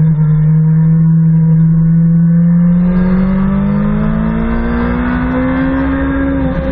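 BMW S 1000 RR inline-four engine pulling on track, heard from on the bike. It holds a steady note at first, then rises smoothly in pitch from about three seconds in as the bike accelerates out of a corner. There is a brief break in the note near the end.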